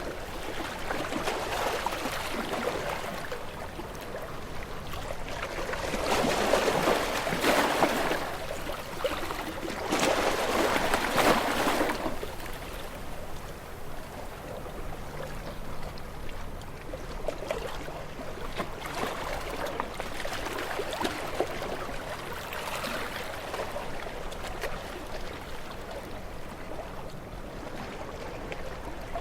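Sea waves washing and splashing against shore rocks, a steady rush of water that swells twice, louder about six and ten seconds in, then eases back.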